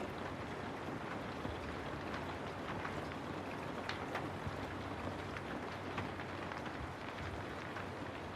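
Steady rain falling, a continuous hiss with many individual drops ticking sharply through it.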